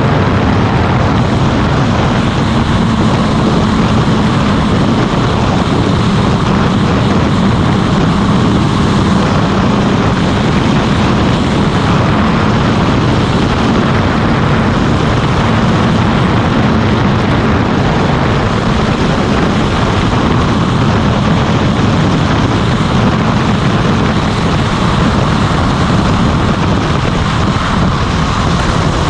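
Motorcycle running at a steady cruising speed on the road, its engine drone mixed with rushing road noise with no break or change.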